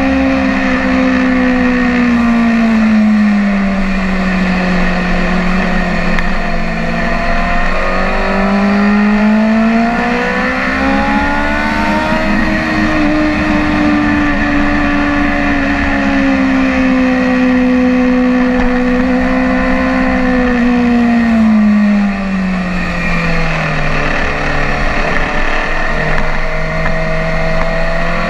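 BMW S1000RR sport bike's inline-four engine running hard on track. Its pitch falls in the first few seconds, climbs again from about a quarter of the way in, holds high, then drops low near the end. A steady rush of wind noise runs underneath.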